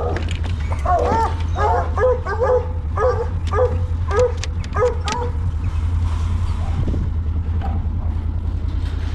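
Coonhounds barking in a quick run of short, yelping calls, about two a second, which stop about five seconds in. A steady low rumble runs underneath.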